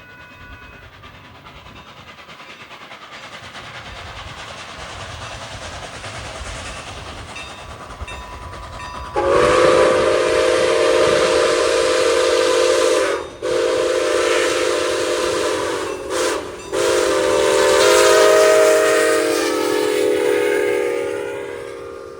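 A train approaches, its noise building steadily. Then a multi-chime locomotive horn sounds the grade-crossing pattern: long, long, short, long. The last blast dips slightly in pitch near the end.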